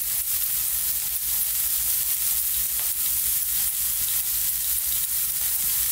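Chopped onion and garlic frying in olive oil in a nonstick pan: a steady sizzle with small scattered crackles.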